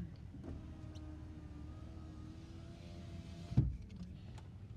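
A small electric motor hums steadily for about three seconds, then stops with a sharp thump, over a low steady rumble.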